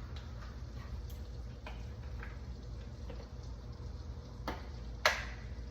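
Kitchen handling sounds: a few light clicks and taps over a low steady hum, with a sharper click about five seconds in.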